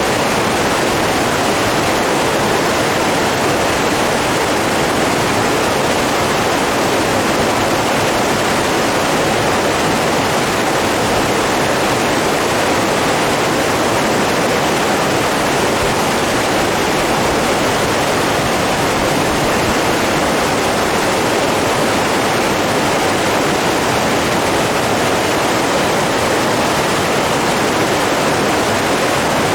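Running water making a steady, unbroken rush, like a stream or small waterfall, with no lapping rhythm.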